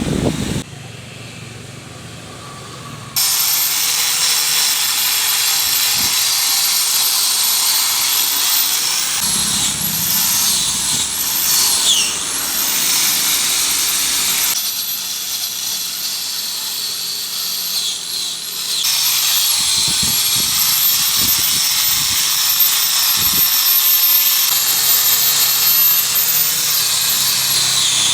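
A high-speed power tool running and working, with a high whine whose pitch dips briefly about twelve seconds in and again near the end, as if bearing down under load. It is quieter for the first few seconds and eases off for a few seconds in the middle.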